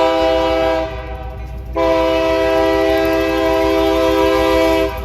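Locomotive air horn sounding a chord of several notes, very loud: a short blast, then after a pause of about a second a long blast of about three seconds. A steady low rumble from the passing train runs underneath.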